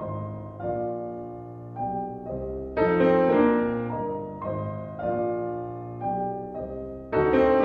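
Background piano music: struck notes and chords in slow phrases, with a strong chord about three seconds in and another near the end, each fading away.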